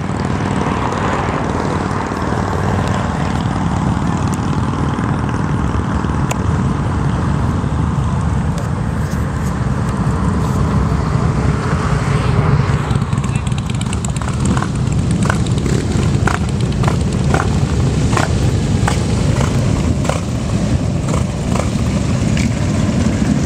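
Motorcycles running, a steady low rumble. A run of short crackling clicks sets in about halfway through.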